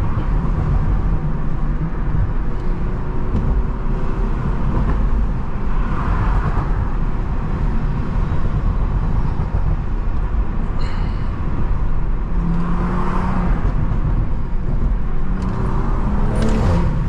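BMW M340i's turbocharged B58 straight-six, stage 2 tuned with a catless downpipe, running at low, steady revs while driving, with a deep, steady exhaust drone and road rumble. The engine note rises slightly near the end.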